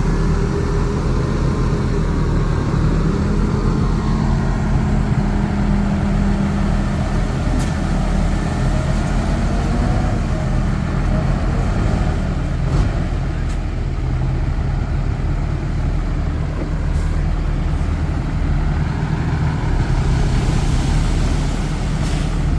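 Heavy diesel engine of earthmoving machinery running steadily, its pitch rising and falling over the first ten seconds, with a few short clanks.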